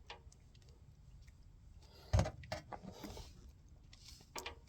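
Faint handling noises from wiring a furnace transformer: a few light clicks and taps, the sharpest about two seconds in, with more near the end.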